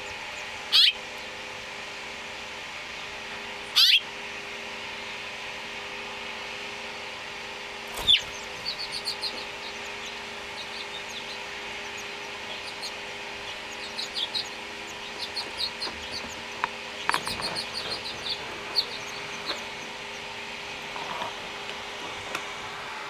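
House finch birds at a nest: two loud calls rising in pitch near the start and another about eight seconds in, then clusters of short, high, rapid cheeps, the kind nestlings make when begging to be fed. A faint steady hum lies underneath.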